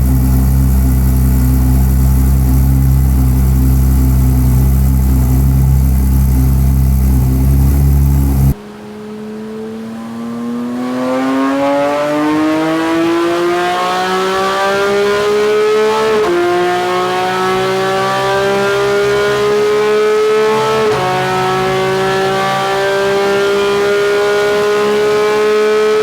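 Porsche 992 GT3's 4.0 flat-six with a Supersprint full exhaust: a steady low drone, then after an abrupt cut the engine note climbing through the revs. The pitch dips twice at quick upshifts and climbs again after each.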